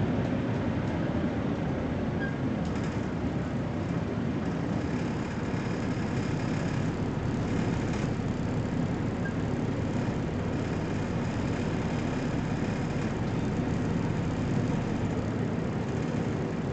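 BMC Belde 220-SLF city bus engine running under way, with road and body noise, as heard on board. A faint high whine comes in about three seconds in and fades a few seconds later.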